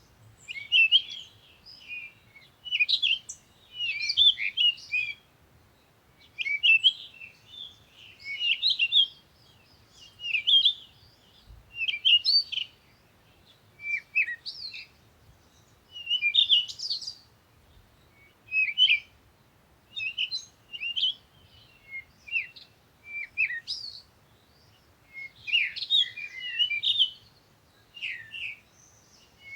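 Small birds chirping and twittering in short bursts of rapid high notes, one burst every second or two with brief quiet gaps between.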